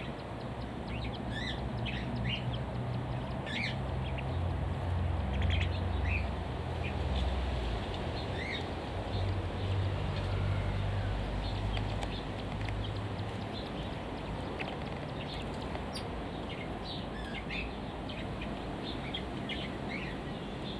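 Small aviary birds chirping: many short, high calls scattered throughout, over a low steady rumble that is heaviest in the first half.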